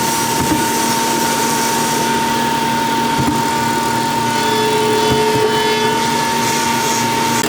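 A woodworking power tool's motor running steadily with a constant high whine, with a few light knocks now and then.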